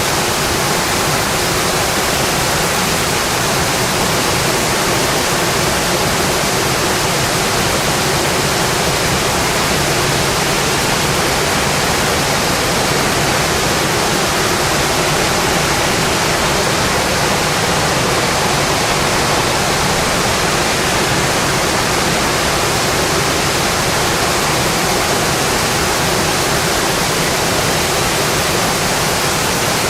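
Steady rain falling on a metal roof: a dense, even hiss of drops with no break or change.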